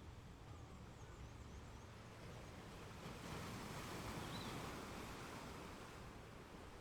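Faint outdoor nature ambience: a soft steady hiss that swells for a couple of seconds around the middle, with a few short, high bird chirps.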